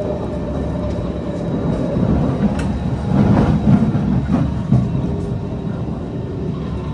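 Running noise inside a Kawasaki C151 metro train: a steady rumble of wheels on track that swells a little louder about three seconds in.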